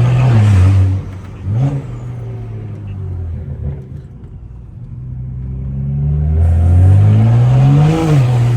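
Straight-piped BMW N55 turbocharged inline-six pulling hard, then lifting off about a second in, with a short rev blip just after. It runs low and steady for a few seconds, then climbs through the revs for about three seconds and lifts off again near the end.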